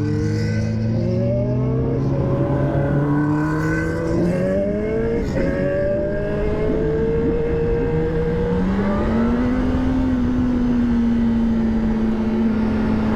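Straight-piped sport motorcycle engine with no muffler, accelerating: its pitch climbs, drops back at a gear shift, climbs again and then holds steady while cruising.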